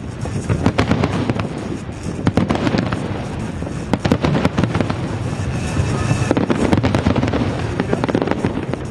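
Fireworks display: aerial shells bursting in quick, dense succession with crackling, many bangs a second and no let-up.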